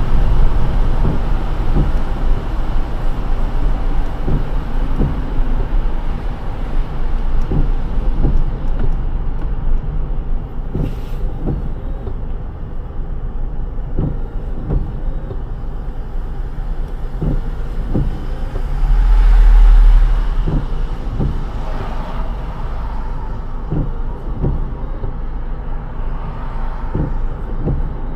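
Car driving on a wet road in the rain: a steady low road-and-tyre rumble with a hiss of spray. Soft knocks come every few seconds, often in pairs, and a louder low rumble swells briefly about two-thirds of the way through.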